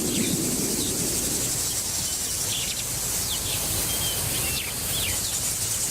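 Wild outdoor ambience: a steady high insect drone with scattered short bird chirps, over a low steady rumble.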